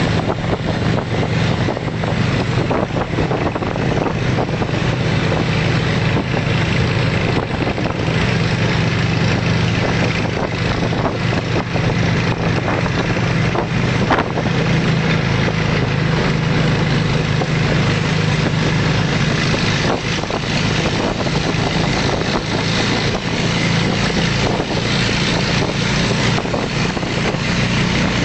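Volvo T31 tractor engine running steadily.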